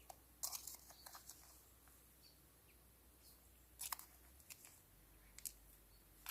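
Near silence broken by a few faint, short clicks and rustles: a quick cluster about half a second in, then single ones near the middle and near the end.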